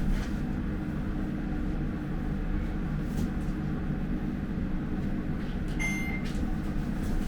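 Elevator car travelling down, a steady low hum, with a short high beep about six seconds in.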